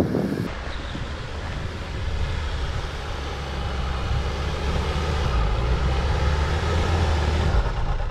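Nissan Pathfinder's engine running under load as the SUV pushes up a slope through deep snow: a steady low drone that grows louder about two seconds in and eases off shortly before the end.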